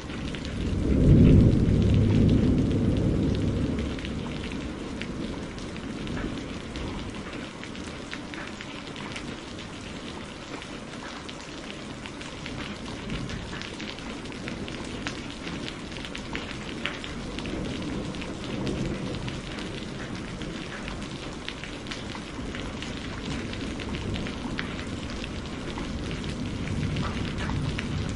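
Steady rain falling, with a loud roll of thunder about a second in that fades over the next few seconds, and fainter distant rumbles later on.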